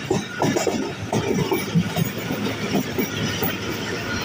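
Passenger train running along the track, heard on board: a steady rumble of the wheels on the rails with irregular clatter.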